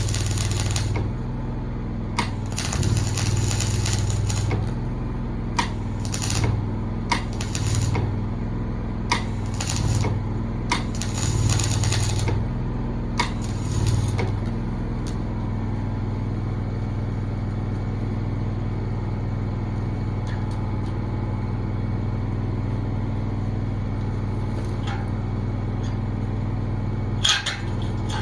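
An engine running steadily at a constant speed. During the first half it is broken by about seven short bursts of hissing noise, each one to two seconds long, with a few sharp clicks between them.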